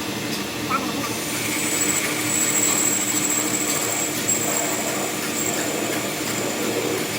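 Workshop machine running steadily, with a thin high whine from about a second in until near the end.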